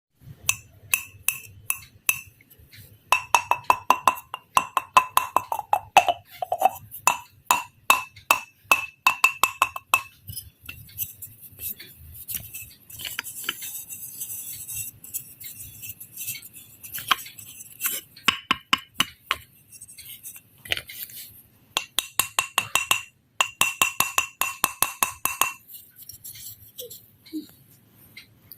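Rapid series of sharp taps or clicks, many with a short ringing tone. In the middle they give way to a stretch of hissy scraping or brushing, and the taps return near the end.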